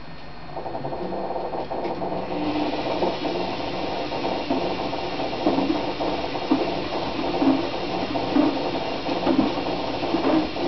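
Washing machine running: a steady mechanical hum that picks up about half a second in, with a regular knock about once a second through the second half.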